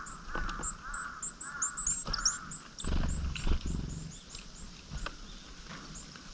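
Wild birds calling: four hoarse, arched calls in quick succession, about half a second apart, over a run of thin, high chirps from small birds. About three seconds in there is a low rustling noise.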